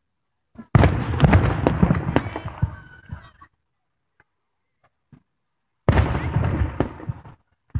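Aerial firework shells bursting twice: each a sudden loud bang followed by crackling pops that die away over a couple of seconds, the first about a second in and the second near the end.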